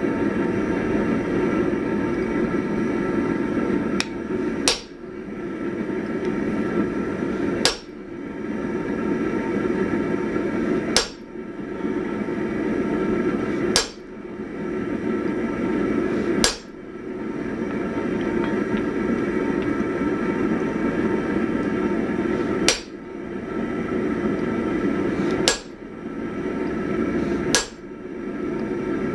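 Single heavy hammer blows on steel, about nine, roughly every three seconds with a longer pause midway, each ringing briefly, over a loud steady rushing noise. The blows are punching the eye through a hot 1045 steel axe head.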